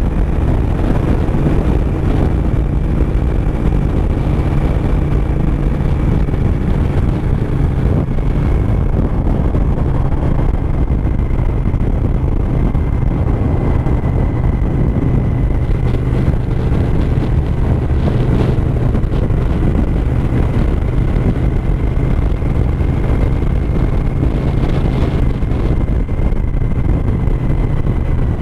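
Suzuki SV1000S's 90-degree V-twin engine running steadily at cruising speed, with wind noise on the bike-mounted camera's microphone.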